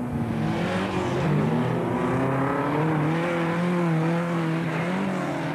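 Saab 99 folkrace car's four-cylinder engine running hard at full throttle as the car passes close by. The note climbs about a second in, holds high, and drops away near the end as the car goes past.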